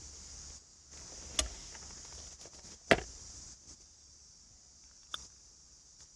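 A few sharp clicks and knocks, the loudest about three seconds in, over a steady high hiss that stops about halfway through.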